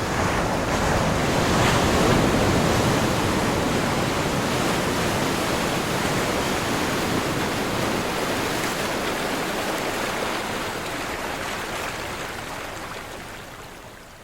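Ocean waves breaking: a wave crashes and swells to its loudest about two seconds in, then a long wash of surf that fades away near the end.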